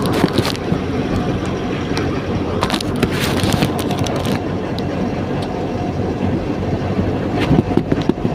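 A truck running, with steady engine and road noise and a few louder rushing surges.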